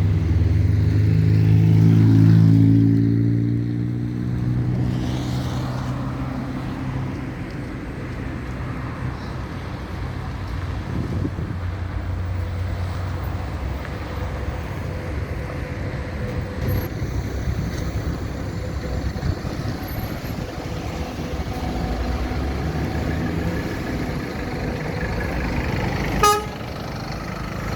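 Scania K310IB bus engine pulling away, its pitch rising over the first few seconds, then settling into a steady running noise as the bus drives on. A short horn toot sounds near the end.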